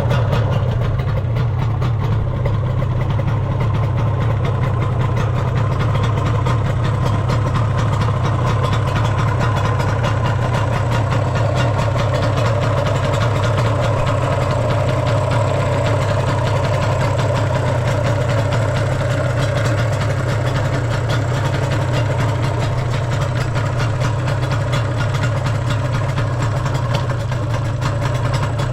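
Yamaha RZ250R's two-stroke parallel-twin engine idling steadily through aftermarket expansion chambers, with no abnormal noise from the engine.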